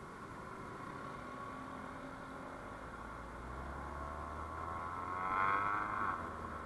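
Road traffic noise heard while riding, with a vehicle passing close: it swells to its loudest about five and a half seconds in, then eases off.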